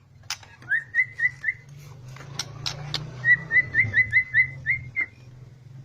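Two runs of short, rising whistled notes repeated about four a second, with a few sharp clicks in the gap between the runs.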